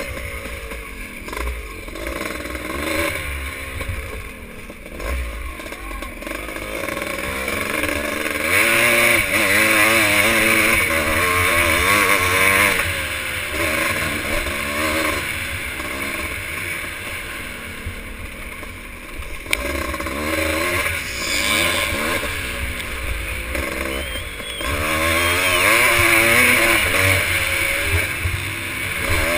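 Vintage motocross motorcycles racing, their engines revving up and falling back again and again as they shift and accelerate. Loudest about eight to thirteen seconds in, and again near the end.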